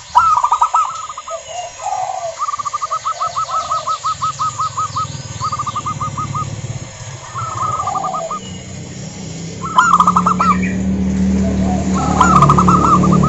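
Zebra doves calling: several bouts of rapid, staccato rolling notes, one after another, with softer low coos between them and faint higher chirps of small birds. A low steady hum comes in about two-thirds of the way through.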